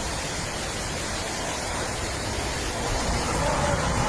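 Heavy rain and hail driven by strong wind, a steady, even rushing noise that swells slightly about three seconds in.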